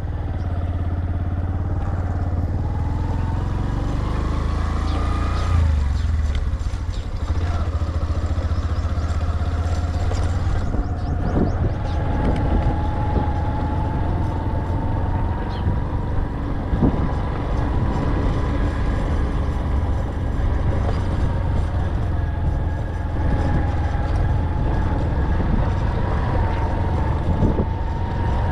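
A motor vehicle running steadily: a continuous low rumble with a thin whine above it that drifts slightly up and down in pitch.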